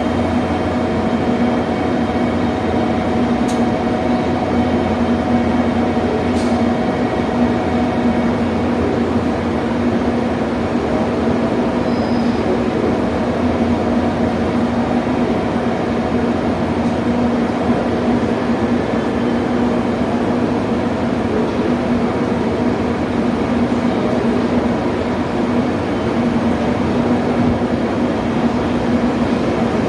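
JR Kyushu 883 series electric train standing at the platform, its onboard equipment giving off a steady hum with a low, even tone.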